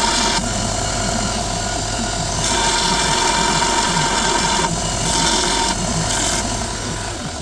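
An electric power tool running on metal, with a steady hum and a tone, and an abrasive hiss that swells and eases several times as the tool is worked against the cast-iron vice.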